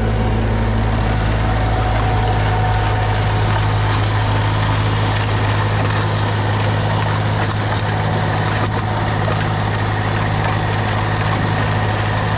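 Tractor engine running steadily while powering a snowblower clearing snow: a constant low hum with a hiss of thrown snow above it.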